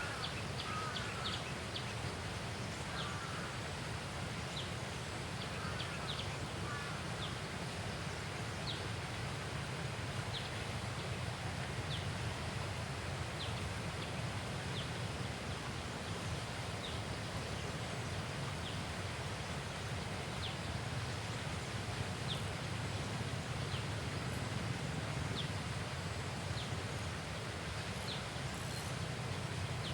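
Outdoor natural ambience: a steady low rush of noise with a short, high tick-like call repeating about once a second throughout. A few brief twitters come in the first several seconds.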